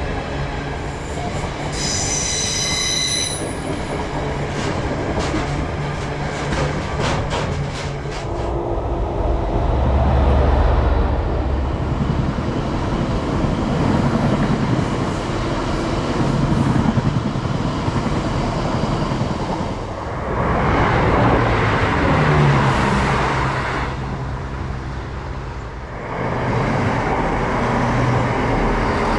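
Freight trains passing: wagon wheels clattering over the rails, with a brief high-pitched wheel squeal a couple of seconds in. Near the end a diesel multiple unit runs along a platform.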